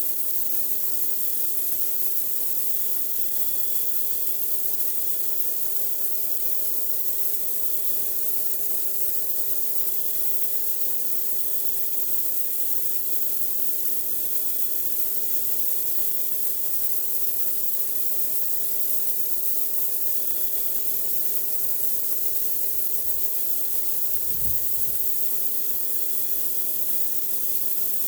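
Pressure washer spraying a dirty driveway: a steady, high hiss of the water jet over the even hum of the machine's motor and pump.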